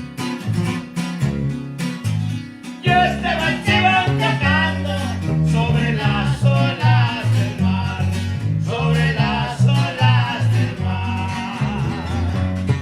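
Norteño band playing live, with bass and strummed guitar keeping the beat. A lead melody line comes in about three seconds in.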